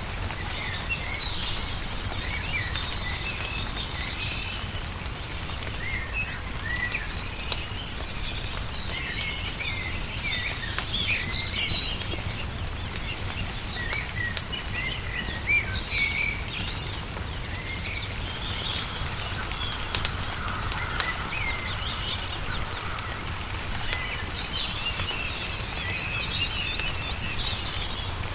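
Small birds chirping and twittering throughout over a wood fire crackling, with a few sharper pops and a steady low rumble beneath.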